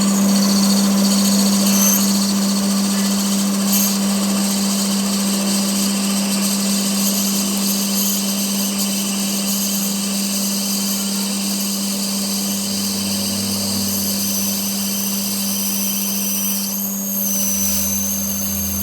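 A workshop machine running steadily with a constant hum and a wide hiss, unbroken throughout, with a lower drone joining in near the end.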